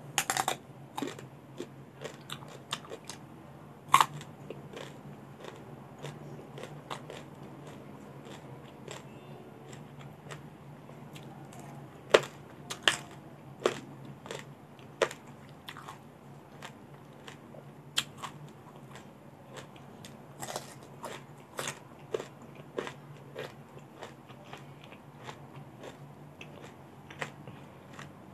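A person biting into and chewing crunchy raw vegetables: a loud bite at the start, then irregular crisp crunches as they are chewed, with louder bites again about 4 and 12 seconds in.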